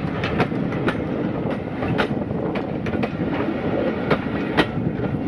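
A heritage railway train running on the line: a steady rolling rumble with many sharp, irregular clicks and knocks as the wheels pass over rail joints.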